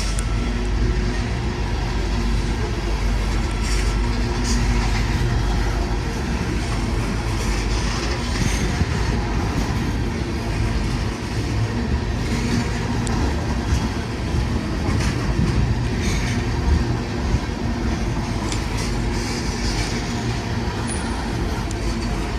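Freight train rolling past: a steady rumble of steel wheels on rail, with scattered clicks from the wheels.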